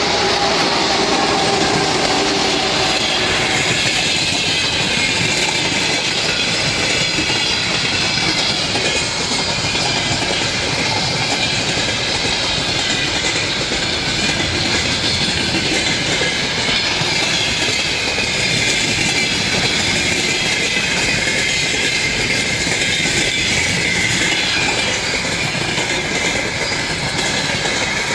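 Train cars rolling past close by behind a 2TE116 diesel locomotive: a steady loud rumble of wheels with clickety-clack over the rail joints and thin wavering high tones from the wheels on the rails.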